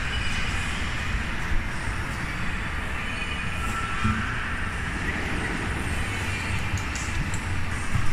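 Kiddie airplane ride in motion: a steady mechanical rumble with no clear beat.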